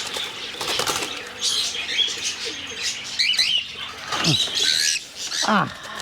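Cockatiels flapping their wings hard as they scramble away from a hand trying to catch them, with short bird chirps and a couple of falling squawks in the second half.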